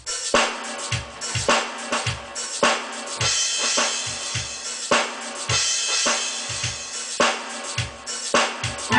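Drum kit playing a steady beat of bass drum, snare and cymbals, starting abruptly.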